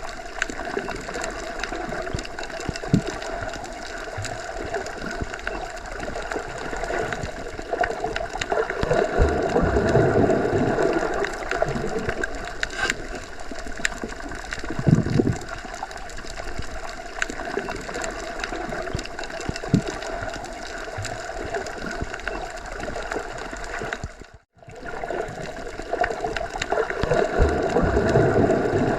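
Underwater ambience, as heard submerged in a pool or lake: muffled, swelling water movement and gurgling over a steady drone. It cuts out briefly near the end.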